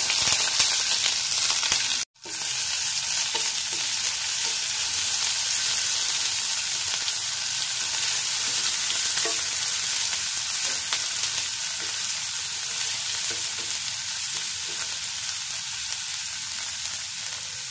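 Sliced green chillies, garlic and ginger sizzling in hot coconut oil in a nonstick kadai, stirred with a wooden spatula. The sizzle cuts out for a moment about two seconds in, then runs on steadily, easing off a little near the end.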